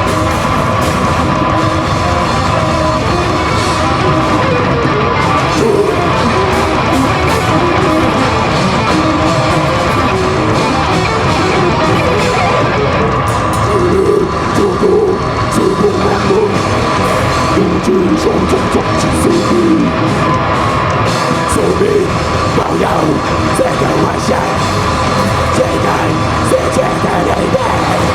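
Live heavy rock band playing: distorted electric guitars and a drum kit, with a yelled or sung vocal.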